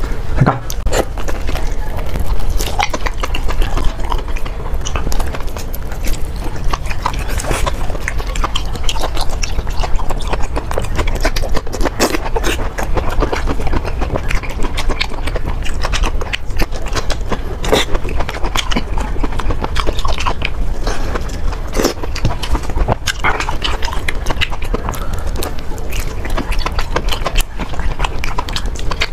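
Close-miked mukbang eating sounds: wet chewing and lip smacking on braised pig intestines and green peppers, a rapid, irregular run of clicks and smacks.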